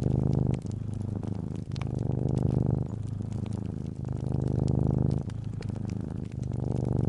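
Domestic cat purring close up, a low fine-pulsed rumble that swells and eases with each breath, about every second or so. Faint scattered crackles of a wood fire sound alongside.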